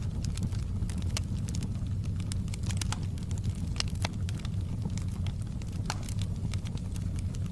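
Wood fire burning in a fireplace: a steady low rumble of flames with many sharp, irregular crackles and pops from the burning wood.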